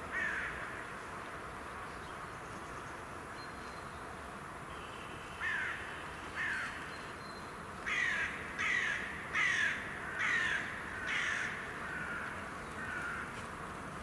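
A bird giving short, harsh calls that slide downward in pitch: one near the start, two more around the middle, then a run of five at about one a second, ending in two fainter calls.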